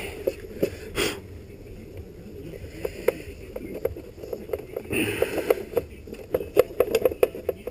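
Scattered clicks and light knocks of motorcycle bodywork panels being handled and worked into place, with a short breath about five seconds in.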